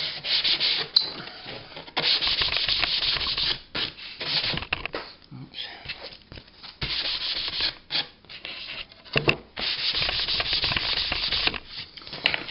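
Sandpaper on a cork sanding block rubbed back and forth along the edge of a glass shelf, smoothing the sharp cut edge. It comes in bouts of strokes a second or two long with short pauses between.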